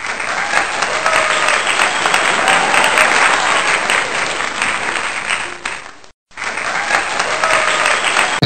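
Crowd applause with voices mixed in. It breaks off for a moment about six seconds in, then starts again.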